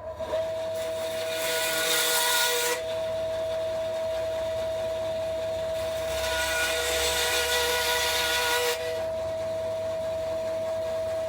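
A small high-speed power tool running with a steady whine, switched on and off abruptly, with two stretches of added hissing grind as it cuts into work, the second one longer.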